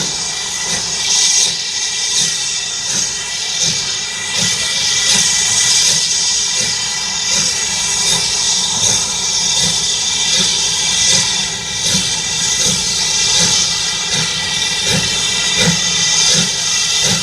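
Steam locomotive hissing loudly and steadily as it lets off steam, with a faint regular low beat underneath.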